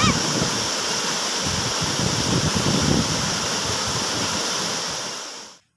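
Waterfall's steady rush of falling water, fading and cutting off near the end.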